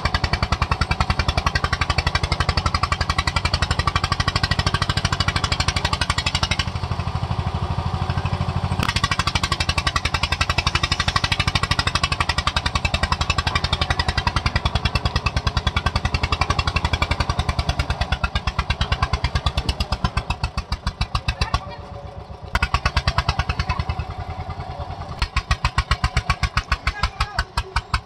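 Eicher tractor's diesel engine working hard under load, with a fast, even exhaust beat. The sound changes abruptly a few times.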